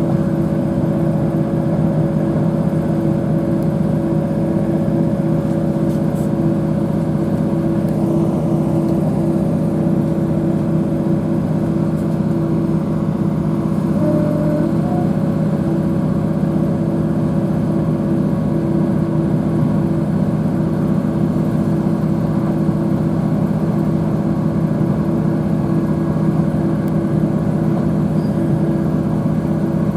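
Diesel multiple unit (Class 156 and Class 150) under way, heard from inside the carriage: a steady engine drone with a few held tones over the rumble of the running train.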